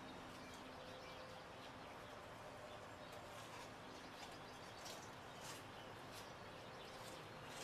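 Faint steady outdoor background noise with a low hum, and a few brief, faint high-pitched chirps scattered through.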